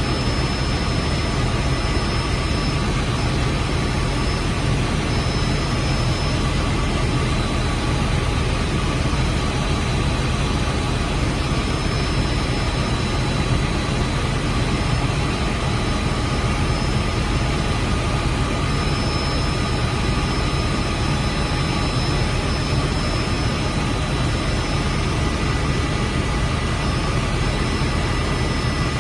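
Helicopter's turbine engine and rotor running steadily: a constant loud drone with several fixed high-pitched whine tones over it.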